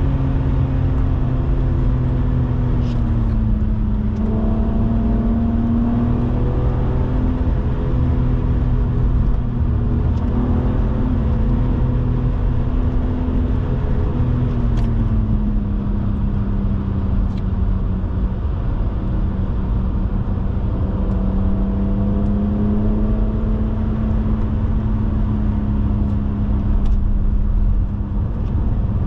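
BMW 130i's 3.0-litre inline-six running at steady cruising revs, its tone easing down slightly a few seconds in and again around halfway, over a low rumble of road noise.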